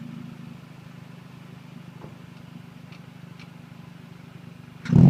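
2012 Honda Civic Si's 2.4-litre four-cylinder idling steadily through a Tsudo cat-back exhaust and Injen short-ram intake, then revved sharply near the end.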